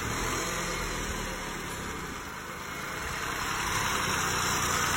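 Car engine idling steadily, with an internal noise that the mechanic puts down to the pistons and the timing chain.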